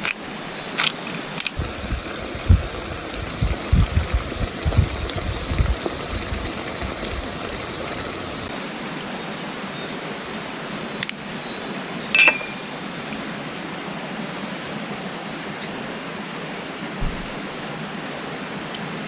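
Running stream or waterfall water, a steady rushing. A few seconds in there are some low, irregular thuds, and a brief sharp sound near the middle.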